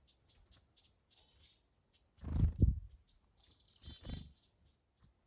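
Chickadees calling: soft, high chips repeat for the first two seconds, and a louder high call comes about three and a half seconds in. A brief louder noise, the loudest thing here, sounds a little after two seconds in.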